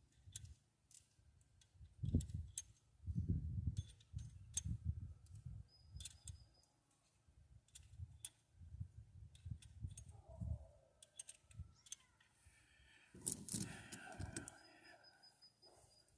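Metal hand tools and small engine parts clicking and clinking as they are handled during work on the engine, with irregular low rumbling bumps underneath and a busier clatter about thirteen seconds in.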